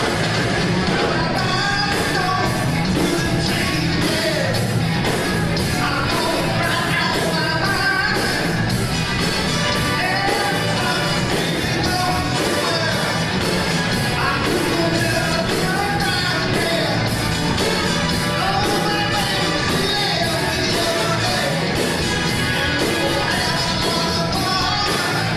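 Live band playing a song with a lead singer over a steady beat of about two strokes a second.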